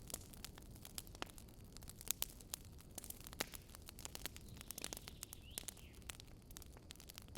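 Wood campfire crackling: irregular sharp pops and snaps from the burning wood over a low, steady rush of flame.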